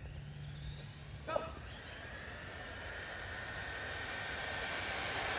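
Electric RC short-course trucks' motors and drivetrains whining under power, the whine slowly rising in pitch and growing louder.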